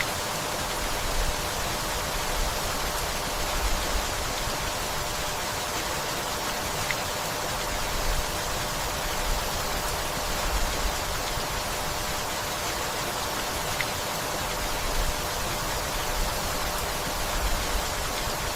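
Steady rainfall, an even hiss with small low swells every second or two.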